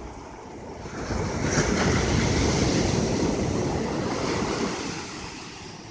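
Ocean surf: a wave breaks and washes up the beach, swelling about a second in and fading near the end, with wind buffeting the microphone.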